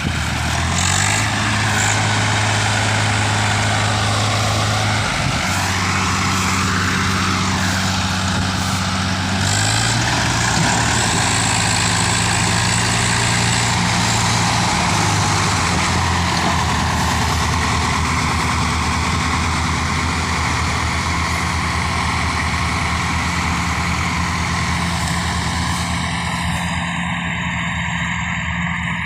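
Swaraj 855 tractor's diesel engine running hard, with its engine speed stepping up and down a few times as it strains to pull a stuck trolley.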